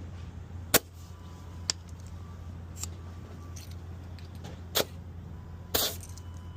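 Truck tire inflator hose at work on a tire, over a steady low hum: four sharp clicks from the chuck and valve, the last one, near the end, drawn out into a brief hiss.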